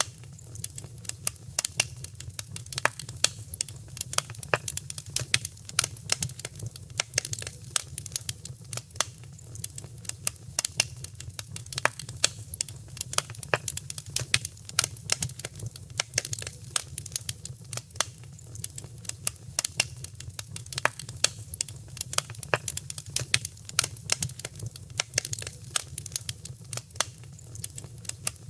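Wood fire crackling, with dense, irregular sharp pops and snaps over a steady low rumble of the burning flames.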